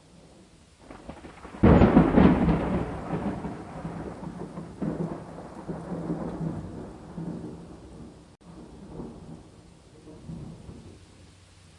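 A thunderclap breaks suddenly about two seconds in and rolls on, slowly fading in waves over several seconds. Softer rumbles follow near the end, with steady rain falling underneath throughout.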